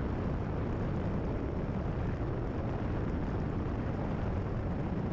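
Steady in-cabin drone of a Cessna 172RG's four-cylinder Lycoming engine and propeller with airflow noise, throttled back to about 20 inches of manifold pressure for the downwind leg.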